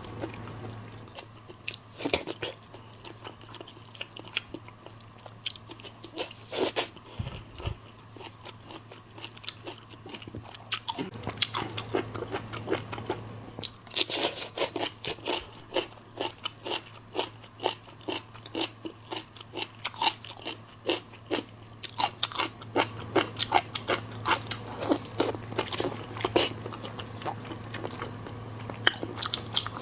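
Close-miked mukbang eating of seafood: many sharp, crisp crunches and wet chewing sounds in irregular clusters, thickest about halfway through and again toward the end, over a faint steady low hum.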